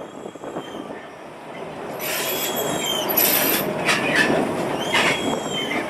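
Railway train rolling on steel rails with a running clatter that grows louder about two seconds in. The wheels squeal high against the rails for over a second from there, and again briefly near the end.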